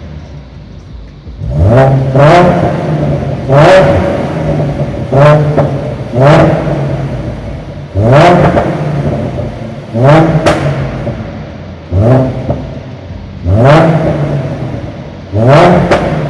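Ford Mustang with an aftermarket Roush exhaust and K&N intake, its engine blipped from idle about ten times in a row. Each blip is a quick rise in pitch that falls back to a steady idle, one every one to two seconds.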